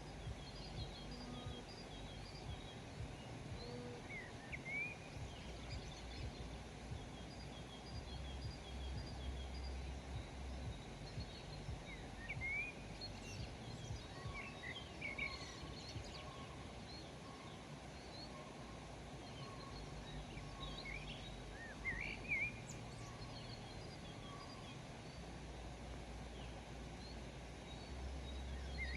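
Several songbirds chirping and calling in short, quick notes, with bursts of activity near the middle and toward the end, over a steady low background rumble.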